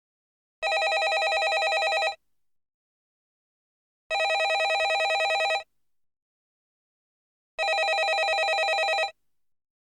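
Landline telephone bell ringing: three evenly spaced rings of about a second and a half each, with a rapid trill and a pause of about two seconds between them.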